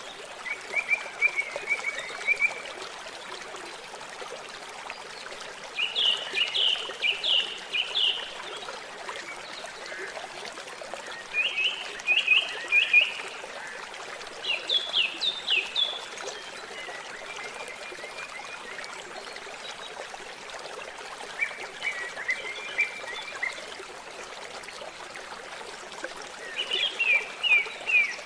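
Water trickling steadily, with a songbird singing short phrases of quick notes every few seconds over it.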